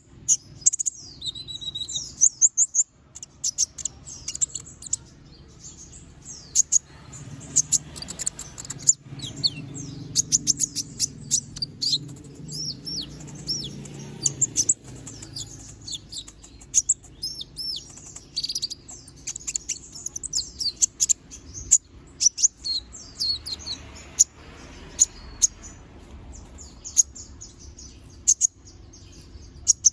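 Konin (kolibri ninja) sunbird singing a long, busy stream of rapid, sharp, high chirps, sweeps and trills, over a faint low hum.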